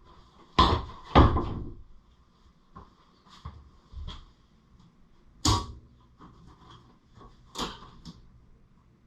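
A series of knocks and clunks from handling parts and tools, loudest twice in the first second or so, with two more sharp knocks about five and a half and seven and a half seconds in, and lighter taps between them.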